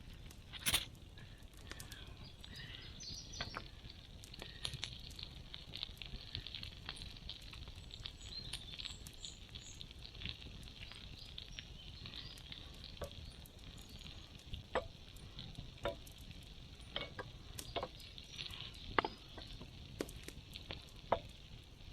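Campfire crackling: irregular snaps and pops over a faint steady hiss, with a sharp pop about a second in and several louder pops in the last third.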